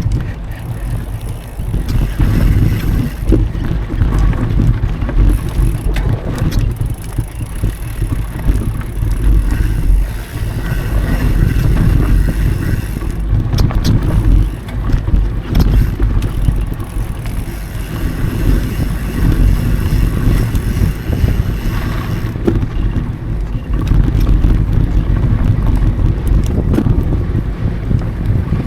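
A mountain bike rolling along dirt singletrack, with a steady low rumble of tyres and wind buffeting an action camera's microphone. Frequent small rattles and knocks come from the bike as it goes over bumps.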